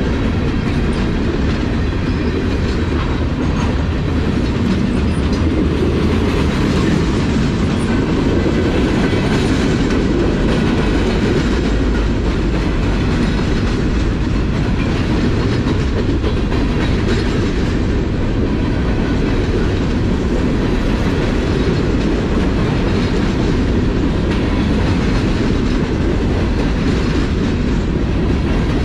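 Freight train's covered hopper cars rolling past close by: steel wheels running on the rails, loud and steady throughout.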